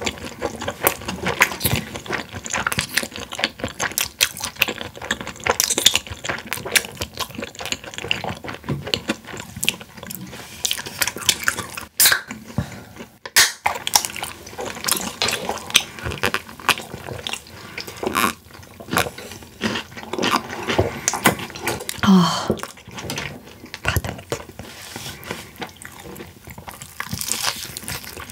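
Close-miked eating sounds: crunching and chewing boneless fried chicken, many short irregular crunches with wet, smacking mouth noises. Beer is drunk from a glass partway through.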